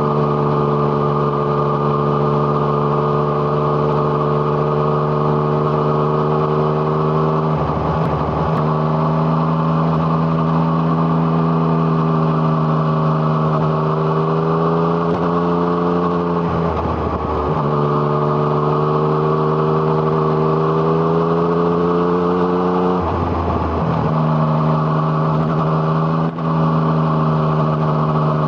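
Yamaha MT-09's three-cylinder engine through an Arrow Thunder exhaust, ridden at fairly steady revs with the pitch climbing gently in places. Three brief breaks in the note, where the revs dip and pick up again, are gear changes. Wind rush runs under the engine.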